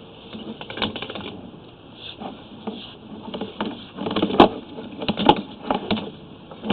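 Irregular clicks and knocks of a sewer inspection camera's push rod and gear being worked through a drain line, quickening about four seconds in.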